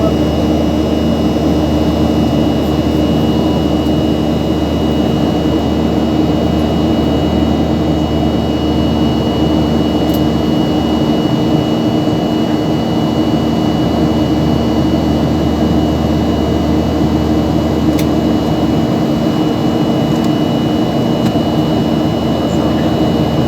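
Steady engine and air-handling drone heard from inside a moving vehicle's cabin: an even, unchanging noise with a constant low hum and a faint high whine.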